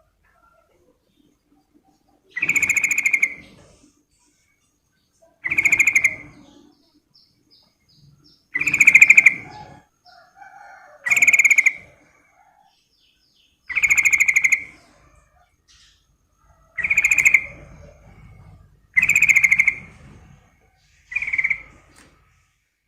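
Yellow-vented bulbul (trucukan) calling: eight loud, fast chattering phrases about a second long, repeated every two to three seconds.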